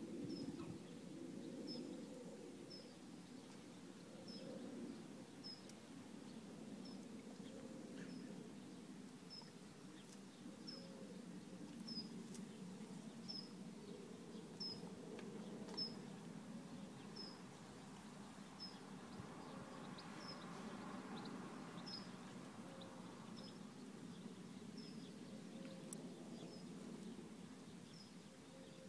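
A small songbird calling a single short, high chirp over and over, about once a second, over faint low background noise.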